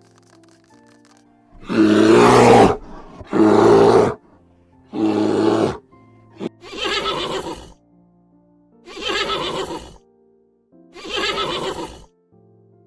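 An animal calling six times, each call loud, harsh and about a second long, over soft background music.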